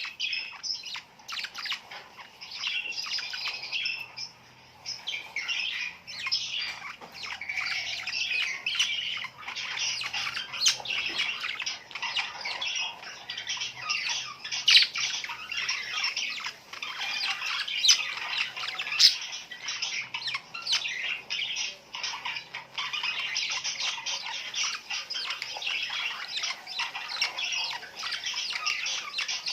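A flock of small birds chirping and squawking continuously in dense, overlapping calls, with a few sharper, louder squawks standing out around the middle.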